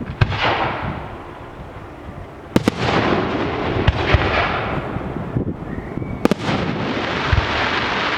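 Aerial fireworks bursting: a series of sharp bangs, some in quick pairs, each followed by a dense crackling hiss that fades away over a second or two.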